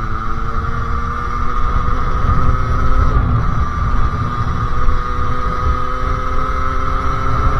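Two-stroke 50cc engine of a Sherco SM-R 50 supermoto running at high, fairly steady revs through a KRM aftermarket exhaust, its pitch dipping slightly about three seconds in and then holding.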